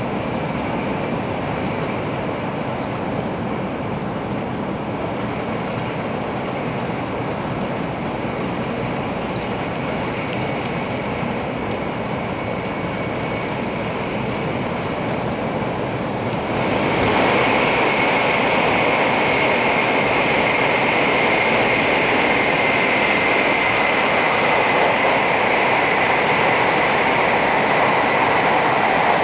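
Cabin running noise of an N700 series 8000 Shinkansen at speed: a steady rush with a faint high whine. About 17 s in it grows suddenly louder and harsher as the train enters a tunnel, and stays that way.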